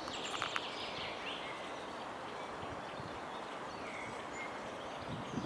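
Small songbirds chirping over a steady outdoor background hiss, with a few quick high calls near the start and a short whistled note about two-thirds of the way through.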